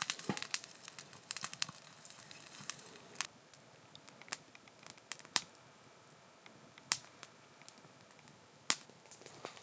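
Irregular sharp crackles and pops, busy through the first two seconds and then thinning to single pops every second or so.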